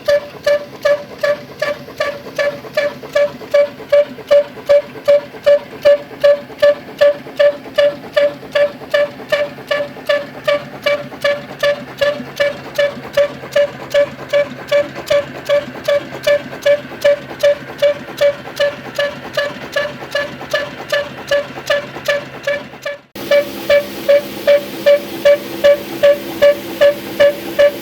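Old slow-running stationary engine of a village flour mill (atta chakki), beating steadily at about two to three beats a second, each beat a short ringing thud. About two-thirds of the way through, the background hum changes but the beat keeps the same pace.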